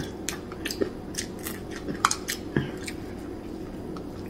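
Crunchy chewing of hard fried dried fish (tuyo) eaten by hand, heard as irregular sharp crunches, with light clicks of fingers and food on a plate.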